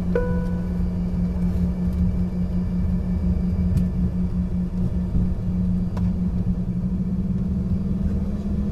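Engines of an Embraer ERJ-140 regional jet heard from inside the cabin: a steady low rumble with a hum whose pitch climbs slightly near the end. A single chime rings at the very start.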